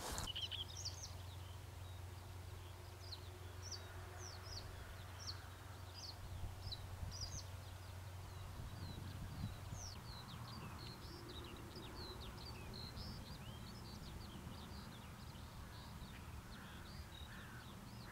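Small birds chirping and singing, with many short, quick high chirps throughout. A faint, steady low hum underlies the first half.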